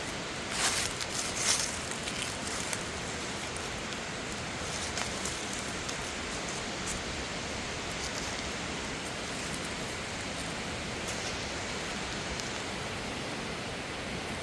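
Steady rushing of water from a mountain stream and waterfall. A few brief rustles or crackles come in the first two seconds.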